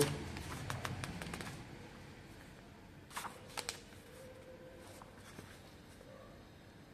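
Quiet pause with faint hiss, broken by a rapid run of soft clicks in the first second and a half and two or three sharper clicks about three and a half seconds in.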